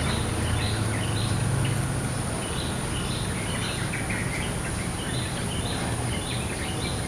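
Wild songbirds chirping in short repeated phrases, over a steady high-pitched buzz and a low background hum.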